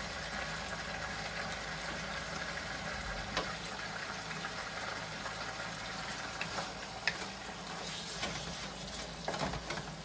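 Steady hiss of cooking: ground beef frying in a nonstick wok beside a stockpot of pasta water at a rolling boil. A wooden spatula scraping and knocking against the wok adds a few sharp ticks in the second half, more of them near the end.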